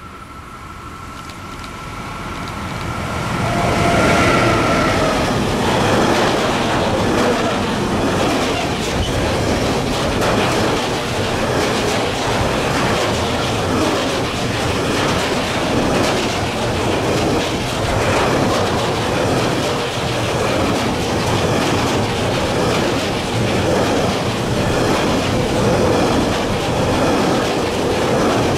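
A long train passing close by. It comes up over the first few seconds, with a steady whine that drops slightly in pitch as the front goes by about four seconds in, then a long, steady run of wagons clattering over the rail joints.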